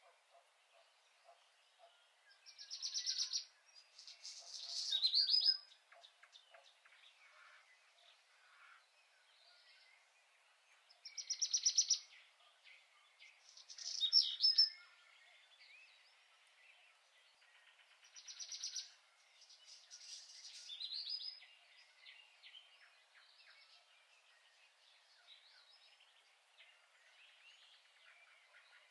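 A bird singing the same song three times, about eight seconds apart: each time a fast trill followed by a brighter, sweeping phrase.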